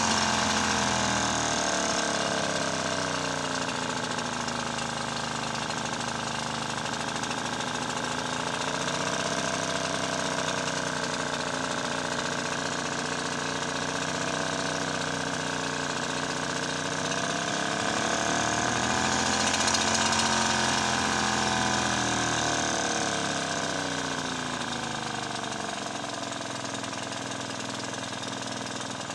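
Effzett outboard motor running, its speed slowly rising and falling: it revs up around ten seconds in and again around twenty seconds in, then drops back toward idle near the end. This is its first run after purchase.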